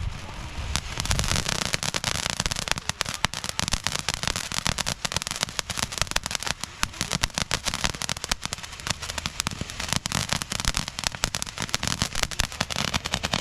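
Fireworks crackling and popping in a dense, rapid run of sharp reports, many per second, that goes on without a break.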